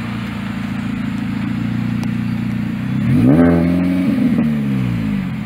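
Car engine idling steadily, then revved once about three seconds in: the pitch climbs quickly, holds briefly and falls back toward idle.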